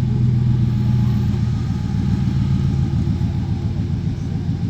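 Shelby Cobra replica's 5.0 L Coyote V8 running at idle with a steady, deep rumble, before it pulls away.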